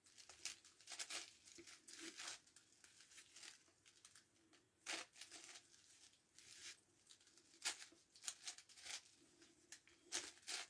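Plastic layers of a 9x9x9 Rubik's Cube being turned by hand: faint, irregular clicking and scraping in quick runs, some louder clacks now and then.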